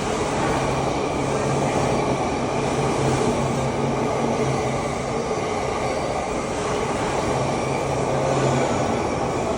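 Chuo Line limited express train running on the rails: a steady rumble of wheels and running gear with a steady low hum.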